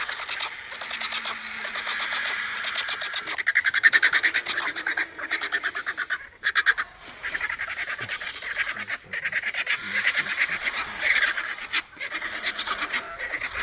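Eurasian griffon vulture calling: rapid chattering calls in several bouts, with short breaks about six and twelve seconds in.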